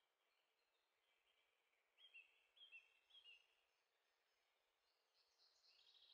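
Near silence, with a few faint bird chirps in three quick pairs about two to three seconds in.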